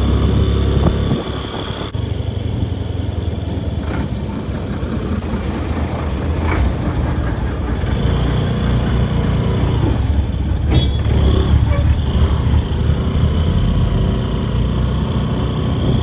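Motor vehicle on the move: engine running under steady road rumble, with a faint high whine. The rumble eases about a second in and builds again later on.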